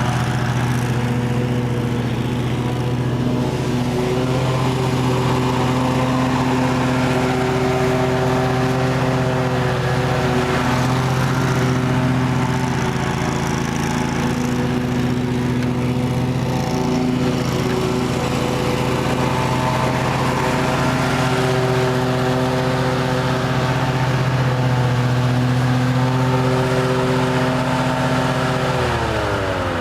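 Kawasaki engine of a Wright 52-inch Sentar stand-on mower running steadily, a healthy, even run; near the end its pitch falls as the engine is throttled down.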